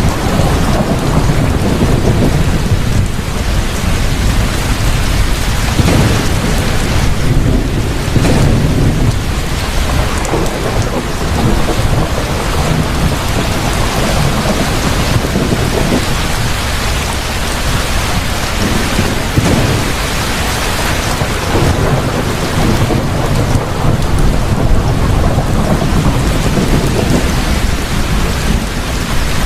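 Heavy rain pouring steadily, with thunder rumbling low and swelling and fading every few seconds.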